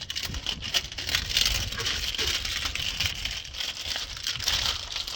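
Plastic wrapping crinkling and rustling with irregular crackles as it is handled and pulled off.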